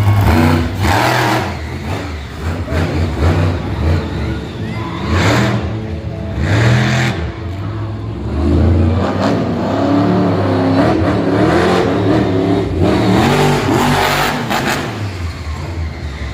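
Monster truck engines revving loudly, the pitch climbing and dropping again and again.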